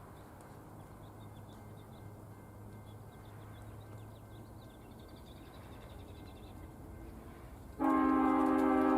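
Faint steady low rumble, then near the end a locomotive air horn sounds suddenly and loudly, a held multi-note chord.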